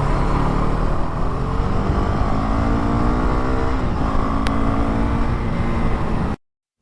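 Motorcycle engine accelerating hard, its pitch climbing, dropping once about four seconds in at an upshift and climbing again, then cutting off suddenly near the end.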